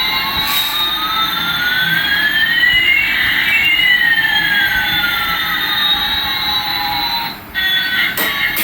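Electronic jet-engine sound effect from a toy Airbus A380 plane: a synthetic whoosh in which one tone rises while another falls, the two crossing midway. It cuts off about seven and a half seconds in, followed by a sharp click.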